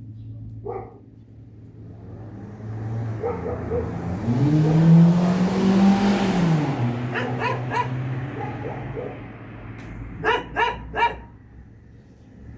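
Helicopter flying over, its drone growing loud and rising then falling in pitch as it passes, about halfway through. A dog barks in two short bursts of three or four barks near the end.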